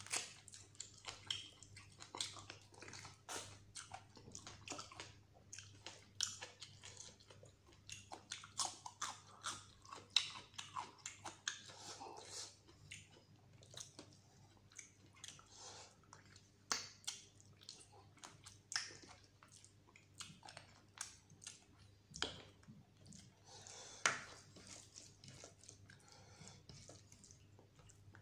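Close-miked eating of mutton curry and rice: wet chewing, biting and lip smacks, one after another, with the squish of fingers working rice and gravy on the plate. A faint steady hum lies underneath.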